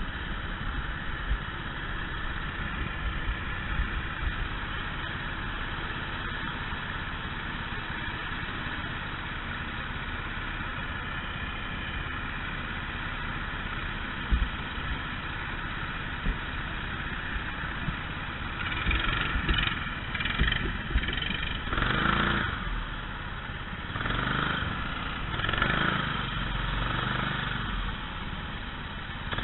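Kart engines running: a steady drone that swells louder several times in the last third.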